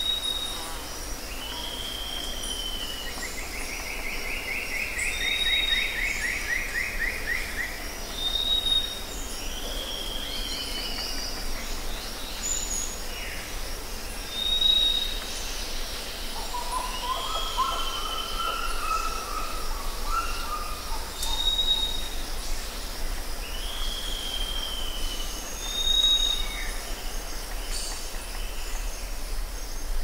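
Forest birds singing and calling: short high chirps repeating every couple of seconds, a fast descending trill early on, and a lower warbling phrase around the middle, over a steady background hiss.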